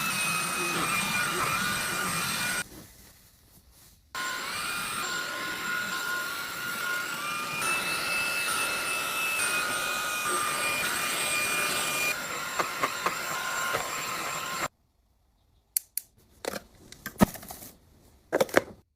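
Vacuum cleaner running with a whine that shifts in pitch. It cuts out for over a second, starts again, and then switches off suddenly. A few sharp clicks and knocks follow near the end.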